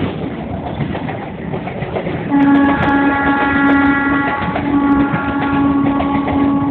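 A train running past with a steady rumble, and from about two seconds in its horn sounds one long, steady multi-note blast, broken by a few brief gaps.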